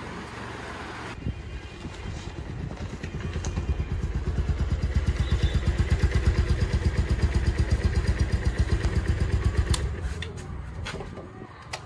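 Bajaj Pulsar motorcycle's single-cylinder four-stroke engine running at a steady idle, a regular low thumping of about six beats a second, louder in the middle and easing off near the end.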